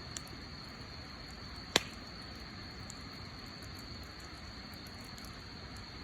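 Wood fire crackling: faint scattered ticks over a steady hiss, with one sharp, loud pop a little under two seconds in.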